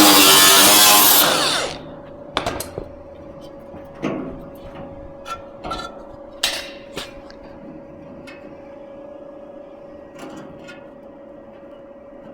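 A power cutting tool runs on sheet-metal bodywork and stops about a second and a half in. After that come scattered knocks and taps of metal being handled, over a steady faint hum.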